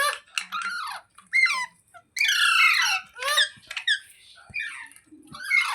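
Rose-ringed (Indian ringneck) parakeet squawking: a rapid series of short, shrill calls that each fall in pitch, with one longer, louder call near the middle.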